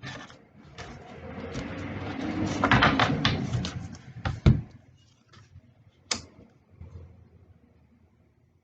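A tarot deck being shuffled: a dense rustling flutter of cards that builds and then stops about four and a half seconds in. Then two sharp slaps, about a second and a half apart, as cards are set down on the table.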